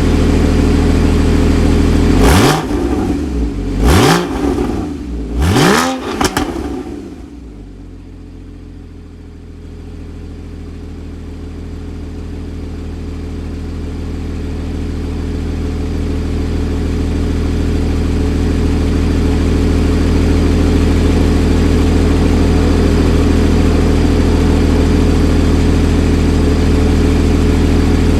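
2013 Porsche Cayman S's 3.4-litre flat-six with sports exhaust idling, revved sharply three times a couple of seconds in, each rev falling back quickly. It then settles into a steady idle that dips and slowly grows louder again.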